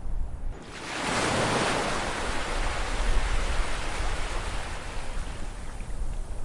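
An ocean wave breaking: a hiss of surf swells up suddenly about half a second in, then slowly fades over several seconds, over a steady low rumble of sea.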